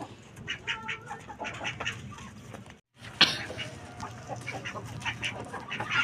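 Ducks quacking and chickens clucking in a backyard poultry pen, short scattered calls, broken by a brief silent gap near the middle.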